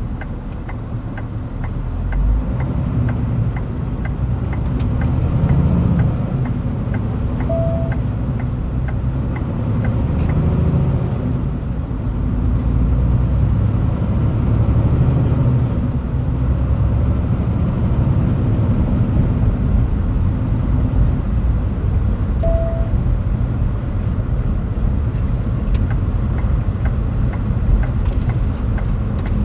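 Vehicle driving, a steady low rumble of engine and road noise. Evenly spaced light ticks are heard over the first few seconds, and two short beeps come far apart.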